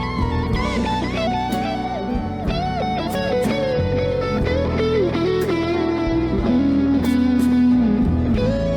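Band music led by an electric guitar playing a melodic lead line with bends and slides, working down to lower notes in the second half, over bass and drums.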